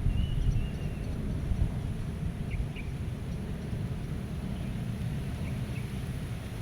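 Meadow ambience: wind rumbling steadily against the microphone, with small birds chirping briefly now and then.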